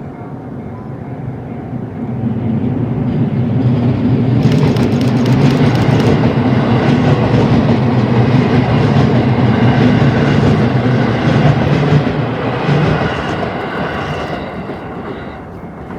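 A train passes close by. Its running noise swells over a few seconds and stays loud for about eight seconds, with a low hum and wheel clatter on the rails, then fades away.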